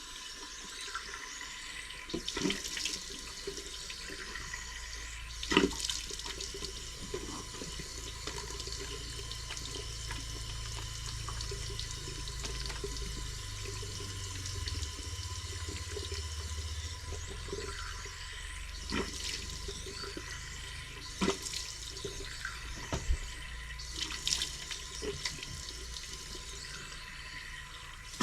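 Bathroom sink tap running steadily while a face is rinsed, with splashes from time to time as water is scooped up and splashed.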